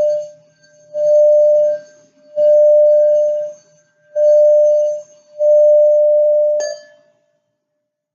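A crystal singing bowl sounding one steady pure tone, swelling in four or five surges about a second long with near-silent gaps between them. Near the end a sharp glassy clink is heard and the tone stops.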